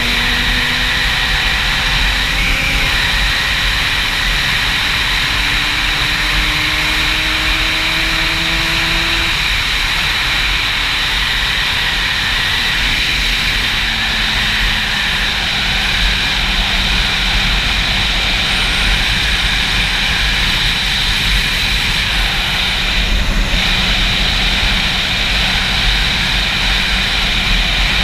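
Heavy wind noise rushing over the microphone of a moving Yamaha YZF-R6 sport bike. Under it, the bike's inline-four engine note climbs slowly over the first third as it gathers speed, then holds steady at cruise.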